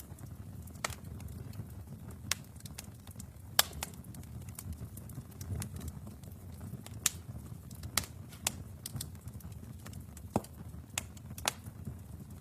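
Wood fire burning in a fireplace: a steady low rumble of flames with irregular sharp crackles and pops, about ten louder ones.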